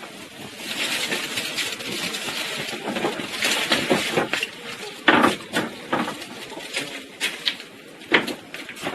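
Irregular clinks and knocks of hard objects being handled and set down, the loudest clank about five seconds in.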